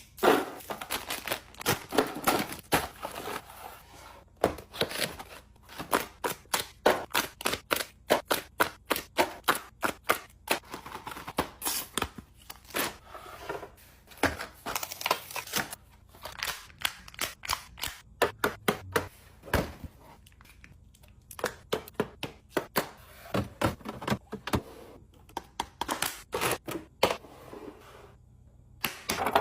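Groceries and containers being set down and arranged on refrigerator shelves: many sharp, irregular clicks, taps and knocks, with a few short pauses.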